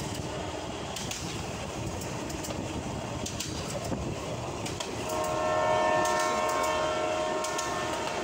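Commuter train running along the rails with clicking from the wheels, and about five seconds in its horn sounds one long, steady blast lasting about three seconds.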